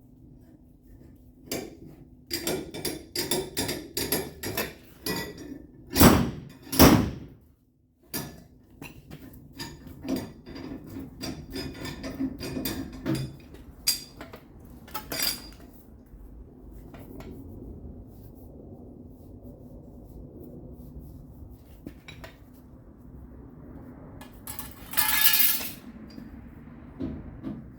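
Hammer on a dolly against steel body sheet metal: a quick run of metallic taps for the first several seconds, the two loudest about six and seven seconds in, then scattered lighter taps over a steady low hum. A hissing burst of about a second comes near the end.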